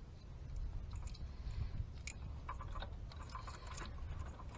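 Wiring-harness plastic connectors and wires being handled and pushed together, with a scatter of small clicks and rustles that are busiest in the second half, over a low steady rumble.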